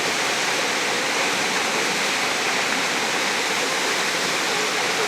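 Running water rushing steadily, an even splashing roar with no breaks.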